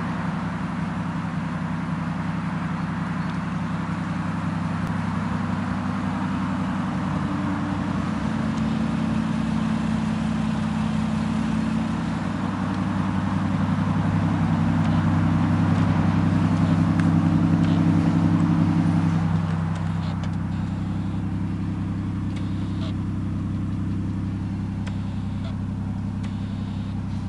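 Toyota Chaser's turbocharged 1JZ-GTE straight-six idling steadily through a quad exhaust. It gets louder for a few seconds past the middle, then settles back.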